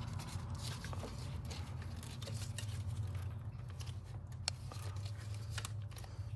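Faint scattered clicks and rustling from hands handling the engine's plastic wiring-harness connectors, over a steady low hum.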